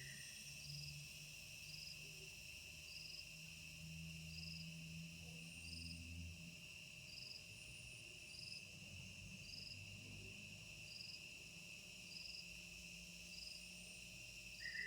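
Crickets trilling steadily and faintly, with a short higher chirp repeating about once a second.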